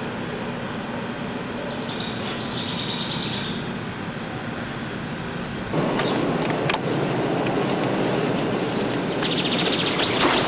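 A small bird chirping briefly twice, once about two seconds in and again near the end, over a steady hiss of outdoor background noise. The background gets louder about halfway through, with a few sharp clicks.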